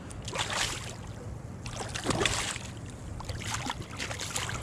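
Water splashing at a kayak's side as a hooked redfish is landed, in about three short bursts.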